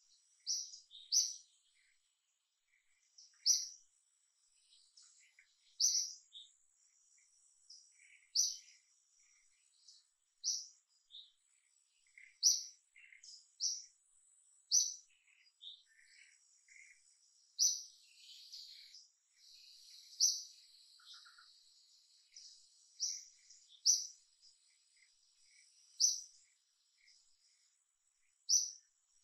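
Birds chirping: a short, high call repeats about every two seconds, with softer chirps from other birds in between and a faint steady high whine beneath.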